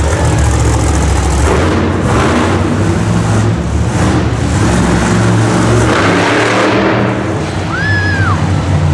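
Monster truck engine running loud and rough, with a short high whistle that rises and falls near the end.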